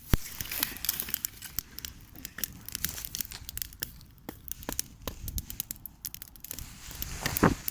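Twigs and sticks on a campfire crackling and snapping: irregular sharp cracks throughout, with a loud snap at the start.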